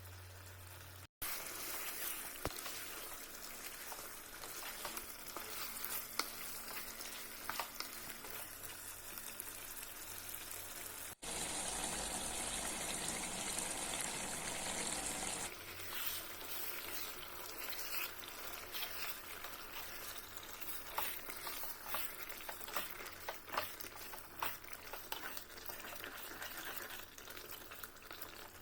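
Chicken korma frying and sizzling in a pan, with crackles and stirring. There is a louder, steadier hiss for about four seconds in the middle.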